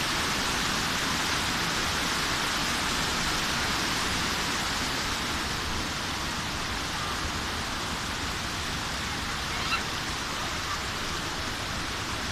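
Steady rushing hiss of a waterfall, with a brief faint high chirp about ten seconds in.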